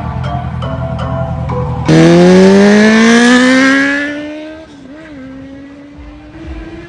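A vehicle accelerating hard: a sudden loud pitched drone about two seconds in, rising steadily in pitch for about three seconds, then wavering briefly and holding a lower level before fading. Background music plays before it.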